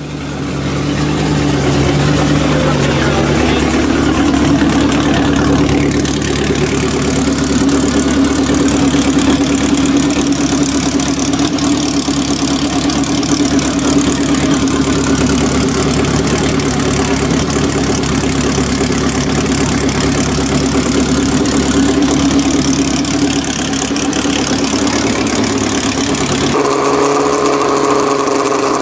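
Car engine idling steadily. About 26 seconds in, the sound cuts abruptly to a different, higher steady engine note.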